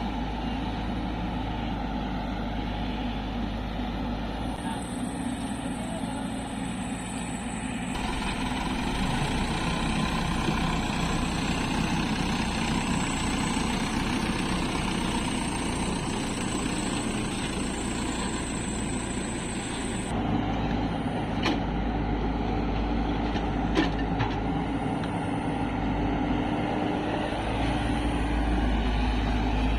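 Heavy diesel engines of an excavator and tractors running steadily while mud is loaded. The engine sound shifts abruptly about eight and again about twenty seconds in, and a few faint knocks follow the second shift.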